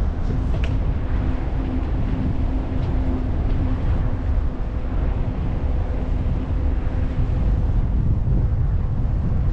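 Wind buffeting the microphone of a moving e-bike as a loud, steady rumble, with a faint steady hum underneath and a few light clicks right at the start.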